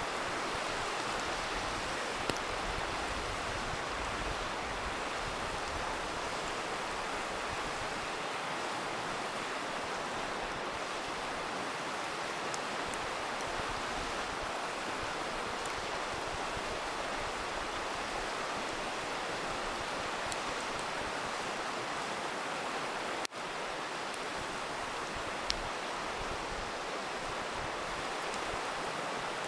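Steady rushing of a river, with an occasional faint, sharp pop from a crackling campfire. There is a brief dropout roughly three-quarters of the way through.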